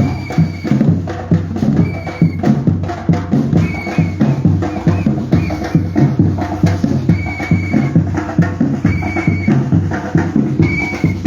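Batucada drum ensemble playing a fast, steady rhythm on deep bass drums and snare drums. Short high-pitched tones cut in every second or two.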